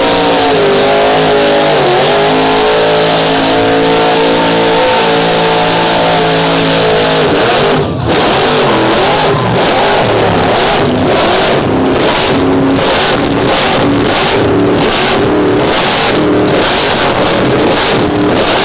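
Big-block mud truck engine running hard at high revs under load, pitch holding with small dips. About eight seconds in it drops out for a moment, then runs on choppy and pulsing.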